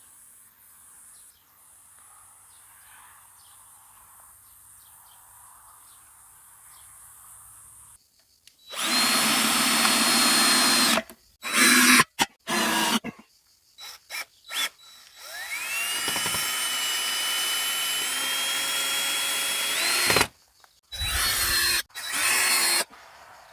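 Power drill run in bursts: a long run about 9 seconds in, several short trigger pulses, then a motor whine that climbs in pitch and holds steady for about five seconds before stopping, followed by two more short runs.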